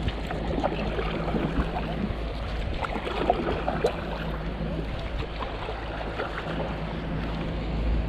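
Kayak moving on a lake: small irregular water splashes and sloshing around the hull over a steady rumble of wind on the microphone, with a faint steady low hum beneath.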